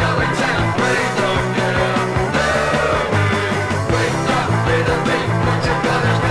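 Punk rock band playing an instrumental passage: distorted electric guitar, bass and drums with a steady driving beat.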